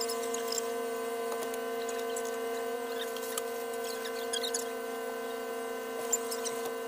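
A steady, even electrical hum with several pitched tones stacked together, and a few faint ticks.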